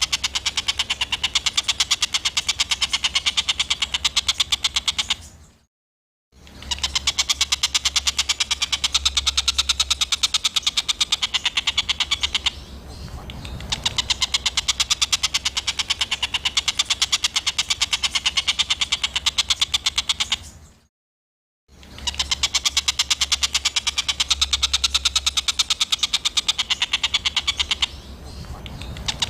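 Songbird masteran recording of harsh, rapid-fire bird calls ('tembakan kasar'): a fast, continuous rattling chatter played in repeating stretches, cut by two brief silences about six and twenty-one seconds in.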